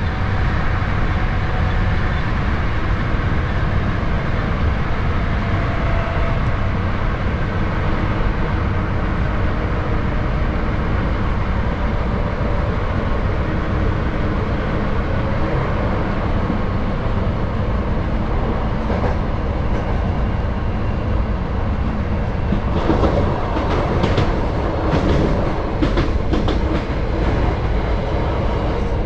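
Hankyu 7000 series electric train running at speed, heard from inside the car: a steady low rumble of wheels on rail. Over the last several seconds the wheels click and knock repeatedly over the track.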